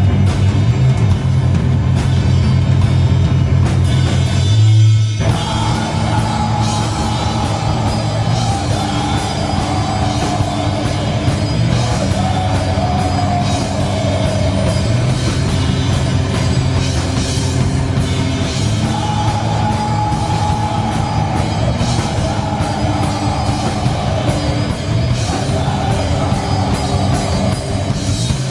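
Heavy metal band playing live and loud: drum kit and heavy sustained low notes, a brief break about five seconds in, then the full band again with a melodic line over it.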